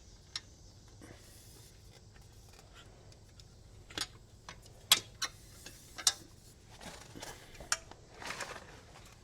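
Scattered metallic clicks and clinks of hand tools working on the e-bike's rear fender hardware, a few sharp ticks spread over several seconds with a short rustle near the end.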